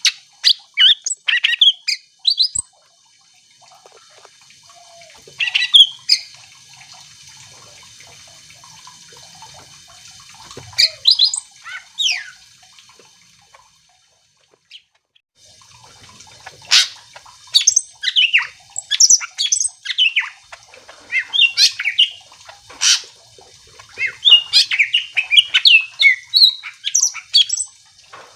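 Cucak ijo (green leafbird) singing: fast runs of varied whistles, chirps and squawky notes. Short phrases come with pauses between them, and the singing turns dense and continuous over the last twelve seconds or so.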